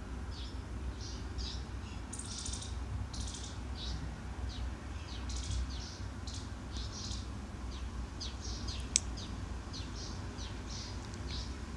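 Small birds chirping in short, irregular calls, over a low steady hum. About nine seconds in there is a single sharp clink, a spoon against a bowl.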